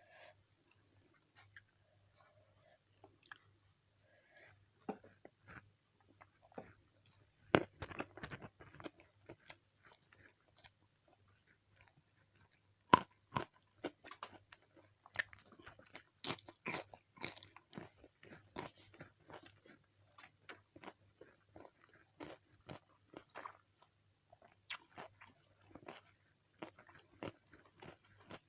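Close-miked eating: irregular crunching bites and chewing of a fried chicken meal with raw vegetables. The sharpest crunches come about 7.5 and 13 seconds in.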